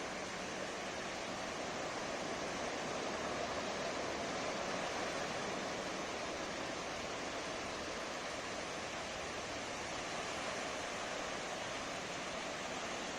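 Atlantic Ocean surf washing onto the shore in a steady, continuous rush of water noise with no single wave standing out.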